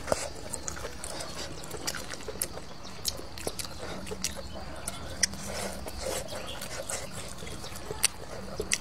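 Close-up wet chewing of grilled sausage and noodles, with irregular sharp mouth clicks and smacks.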